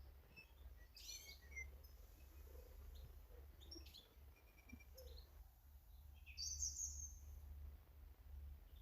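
Faint garden birds calling: scattered short high chirps, with the loudest a brief burst about six and a half seconds in, over a low steady hum.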